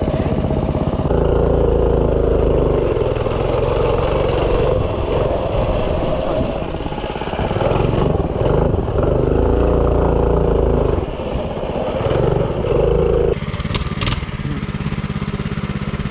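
Minibike engine idling, then running hard at high revs for about twelve seconds, easing off briefly a couple of times, before dropping suddenly back to a steady idle near the end.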